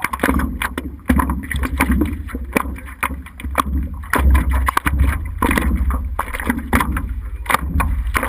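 A 4x4 being driven: a steady low rumble with uneven buffeting and many short knocks and clatters.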